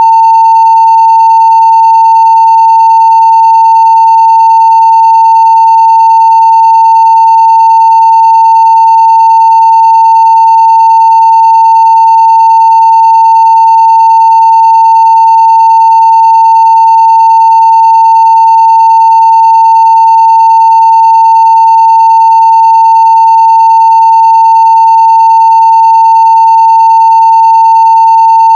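A 900 Hz sine-wave test tone at full scale (0 dB), holding one steady pitch and level without a break.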